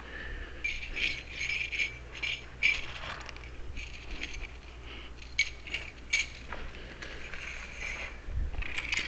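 Keys jingling and clicking as they are handled and sorted, in several short bunches of light metallic clinks.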